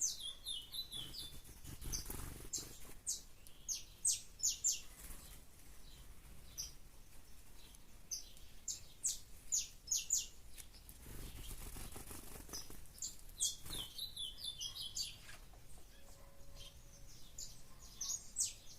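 A songbird singing in repeated short phrases of quick, high-pitched notes, with pauses of a few seconds between phrases.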